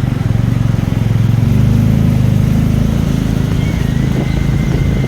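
Engine of a moving road vehicle running steadily at cruising speed, a continuous low rumble with fast, even firing pulses.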